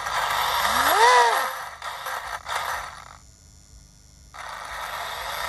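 TP Power 4080 brushless motor in an RC speed-run car given a short throttle blip, its whine rising and then falling in pitch about a second in, over a steady hiss that cuts out for about a second midway.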